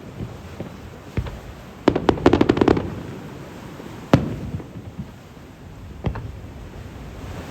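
Aerial firework shells bursting. A bang comes about a second in, then a rapid string of crackling reports around two seconds, then two sharp single bangs at about four and six seconds, each dying away with a rumble.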